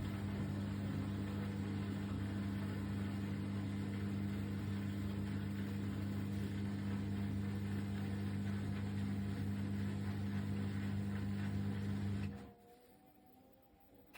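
A steady low hum with two strong steady tones, like a running motor or appliance, that cuts out suddenly about twelve seconds in.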